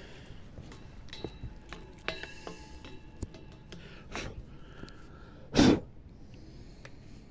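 Several light clinks of crockery or glass with short ringing tones, then one short, loud cough about two-thirds of the way through.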